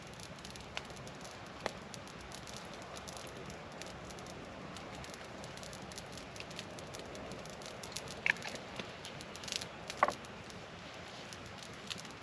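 Campfire crackling under a steady patter of rain, many small ticks with a few sharper pops about eight and ten seconds in.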